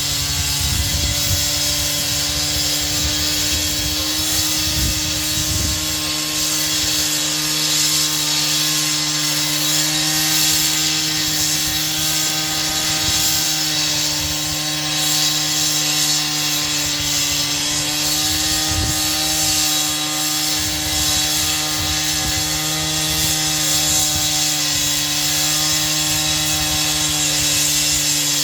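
A power saw running steadily through a cut, a constant motor hum over a hiss of cutting.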